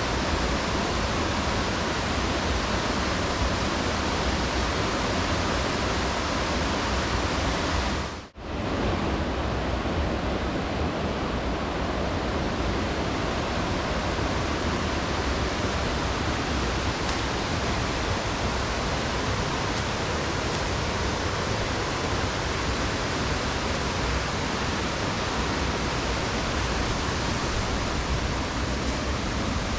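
Waterfall rushing: a steady, dense noise of falling water, with a brief dropout about eight seconds in before it comes back.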